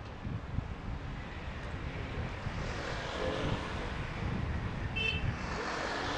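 Airliner jet engines growing gradually louder as the aircraft approaches, over a low rumble of wind on the microphone.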